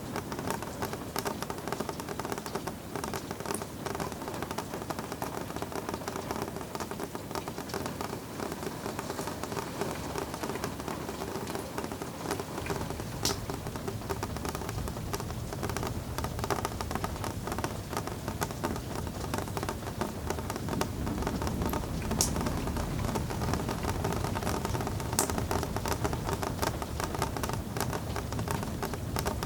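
Steady rain pattering, dense and even, with a few sharper drips standing out. A deeper low rumble joins about twelve seconds in.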